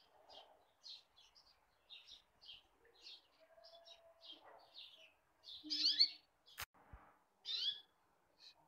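Small birds chirping: a quick run of short high chirps, with two louder calls past the middle and a single sharp click between them.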